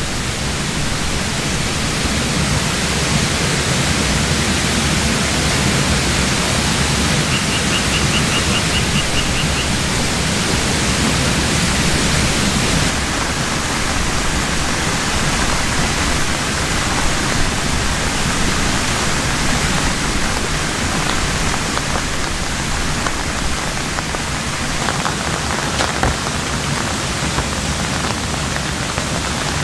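Heavy rain falling in a steady, dense hiss, with a brief run of high, rapid ticks about seven seconds in.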